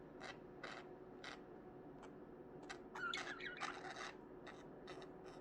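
Budgerigars making faint, repeated short rasping strokes, with a brief soft warble from a budgie about three seconds in.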